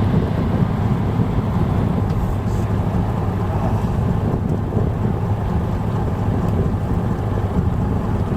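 Chartered fishing boat's engine running at a steady, even drone, with wind on the microphone.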